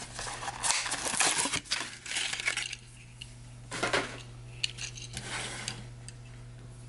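A diecast car in its blister-card package being handled: crackling plastic and card, with a few small clicks and taps. The noise comes in bursts through the first few seconds and again around four and five seconds.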